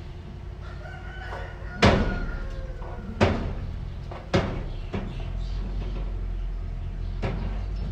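Heavy machinery engine running steadily, with three loud metal bangs over about three seconds and a lighter knock near the end, and a faint squeal in the first two seconds.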